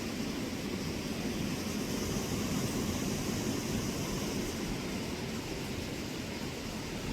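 Steady rushing of waterfall water, a constant low rumble with a hiss on top that swells slightly a couple of seconds in.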